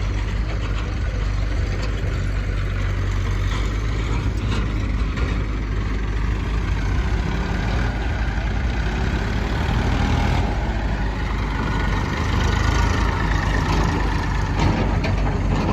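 Heavy diesel engine running steadily at a low, even speed, with a few light knocks on top.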